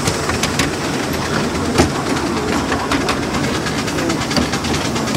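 Miniature railway carriage running along the track: a steady rumble of wheels on rail, with sharp clicks as the wheels pass over rail joints, coming closer together near the end.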